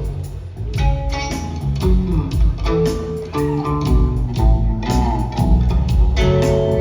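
Live rock trio playing an instrumental passage: electric guitar notes over bass guitar and drums, recorded on a phone.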